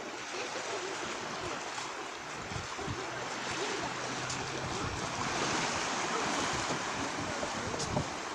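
Small waves of a calm sea washing onto the shore, swelling a little louder about five seconds in.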